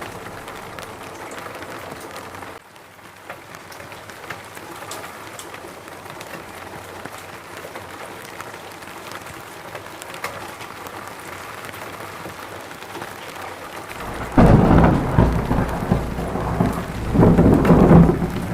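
Steady rain falling in a forest. Thunder rolls in about three-quarters of the way through and swells again near the end, the loudest sound here.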